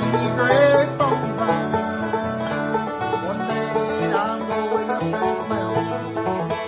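Bluegrass music: banjo picking with a guitar accompaniment, a few notes sliding in pitch.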